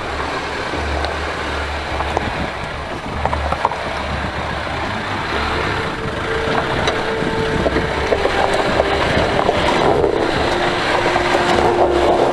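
Land Rover Defender engine running at low revs as the vehicle crawls down a rocky track, growing a little louder in the second half.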